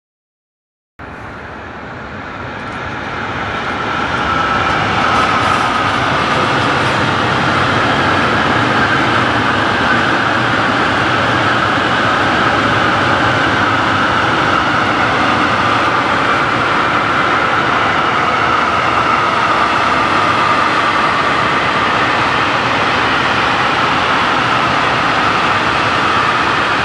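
Freight train wagons rolling past on the rails, a steady loud rumble and rattle of wheels on track with a high ringing tone wavering slightly in pitch. It cuts in about a second in and swells over the next few seconds.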